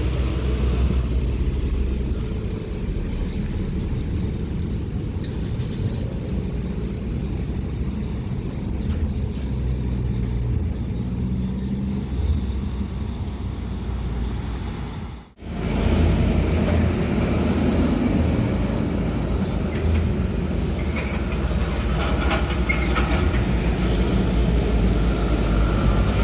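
Diesel truck engines rumbling as trucks pass on the road. The sound breaks off for a moment about fifteen seconds in, then another truck's rumble follows, a little louder.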